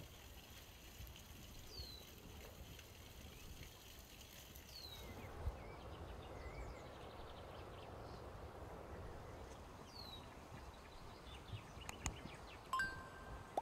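Faint outdoor ambience. A bird repeats a short, high, falling whistled note every couple of seconds over a soft steady rush of running water or wind, which grows a little fuller about five seconds in. Near the end come a few sharp clicks and a brief two-note electronic chime.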